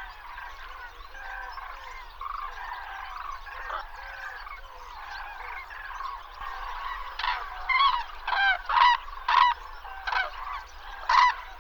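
A flock of common cranes calling: a chorus of many overlapping trumpeting calls, with a run of about seven louder, separate calls from nearer birds in the second half.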